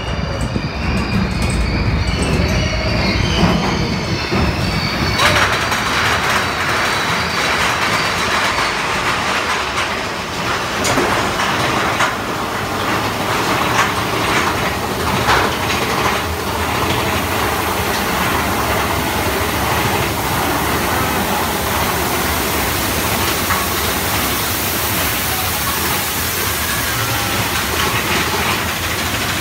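Mine-train roller coaster running along its track: a steady rattle and clatter of wheels on rail, growing louder and fuller about five seconds in.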